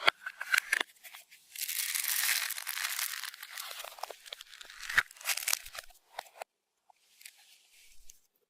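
Crinkling, crunching handling noise: a few sharp clicks, then a couple of seconds of scratchy rustling, then more clicks and soft rustles toward the end.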